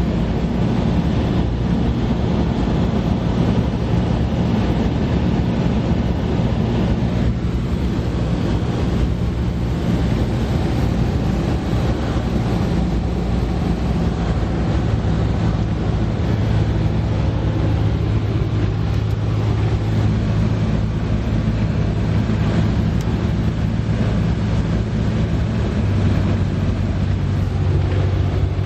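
Cessna 172S's four-cylinder Lycoming IO-360 engine and propeller droning steadily, heard inside the cabin. The engine note steps down about halfway through and again near the end as power is reduced on the landing approach.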